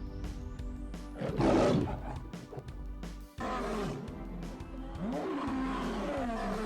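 Background music with animal calls over it: a loud, rough roar about a second and a half in, then, after an abrupt cut, calls that glide up and down in pitch.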